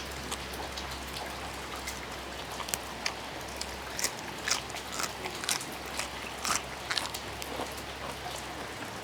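Steady rain with scattered sharp crunches of raw vegetables being chewed close by. A distant tractor engine's low drone sits underneath and drops away about four seconds in.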